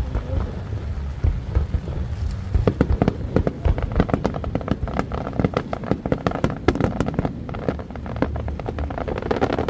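Fireworks going off in a rapid, dense run of cracks and pops, starting about two and a half seconds in and thinning near the end, over a steady low rumble.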